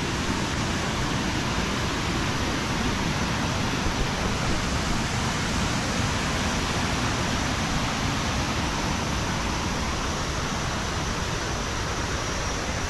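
Steady rushing of the Kuang Si Falls cascades, an even noise with no breaks or changes.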